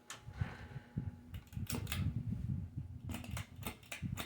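42-inch Hampton Bay Littleton ceiling fan running on medium speed with a low rumble and irregular ticking and clicking. Under it is a faint steady hum, the buzzing that the owner traces to the glass light globe.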